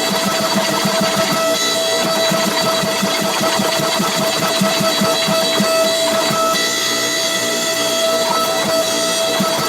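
Machinery running steadily: a rapid, regular low beat under a constant high whine.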